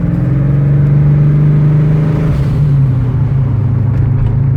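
Twin-turbocharged 302 V8 of a 1988 Fox-body Mustang pulling the car along at light boost, heard from inside the car. The engine note drops slightly a little over two seconds in, then runs steady.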